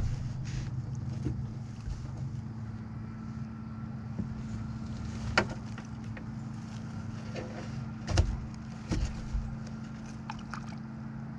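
Scattered light knocks and clicks of gear being handled in a kayak, over a steady low hum and wind on the microphone.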